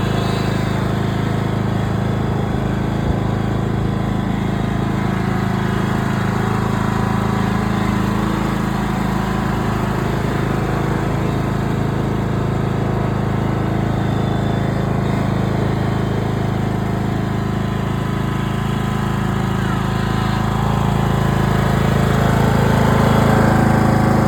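Cub Cadet riding lawn mower's engine running steadily, growing a little louder near the end.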